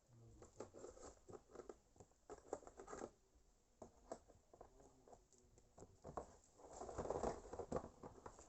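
Faint handling noises: scattered small clicks, taps and rustling as drill-kit parts and packaging are picked up and moved, with a busier stretch of rustling near the end.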